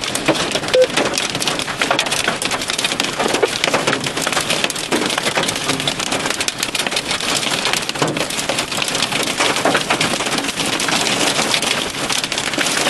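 Heavy rain pelting down in a severe thunderstorm: a dense, steady patter of many small impacts.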